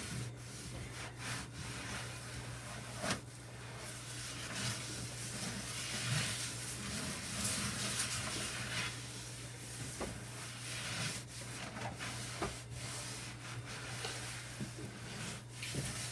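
Cloth rag wiping and scrubbing the inside of a microwave: continuous rubbing strokes with a few light knocks.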